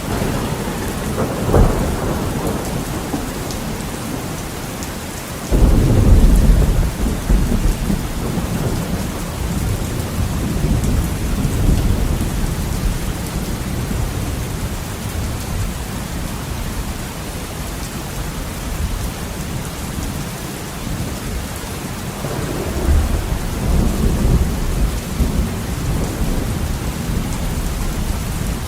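Heavy rain beating steadily on a window during a thunderstorm. A sharp thunder crack comes about a second and a half in, a loud clap of thunder breaks about five seconds in and rolls off slowly, and another rumble of thunder builds near the end.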